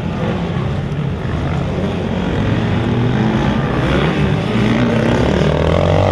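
Motocross bikes racing, their engines droning steadily. About five seconds in, one bike revs up and its pitch rises.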